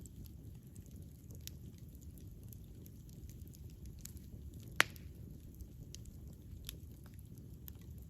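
Wood campfire burning: a steady low rumble of the flames with scattered small crackles, and one loud sharp pop about halfway through.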